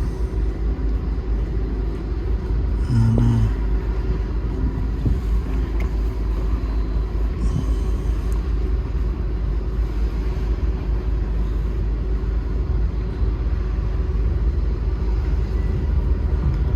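Steady low rumble of wind buffeting the microphone and a ship under way aboard a cruise ship pulling away from the dock.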